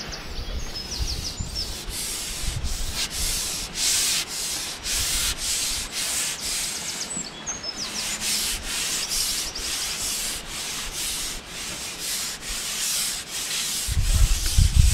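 Repeated rasping, rubbing strokes, about two a second, with small birds chirping now and then. Low wind buffeting on the microphone returns near the end.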